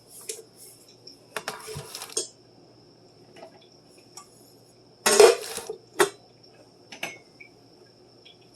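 Dishes and cutlery clinking and clattering as they are put away, in a few separate bursts, the loudest about five seconds in.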